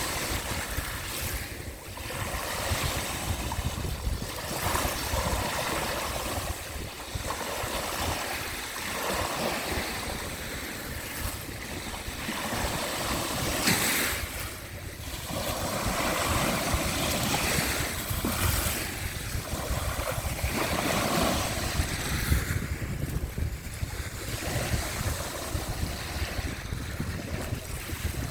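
Sea waves washing in, the noise swelling and easing irregularly, with wind rumbling on the microphone.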